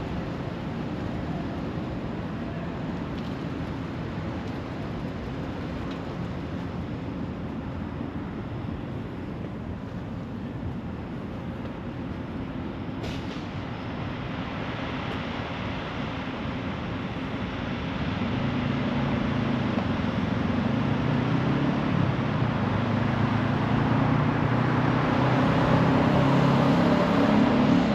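Steady city traffic noise, with a motor vehicle growing louder through the last ten seconds.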